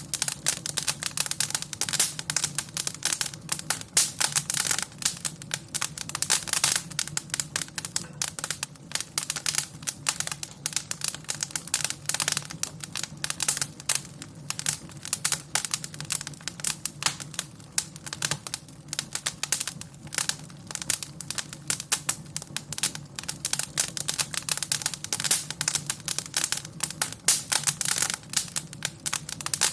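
Wood fire in a fireplace crackling: dense, irregular pops and snaps, several a second, over a steady low rumble.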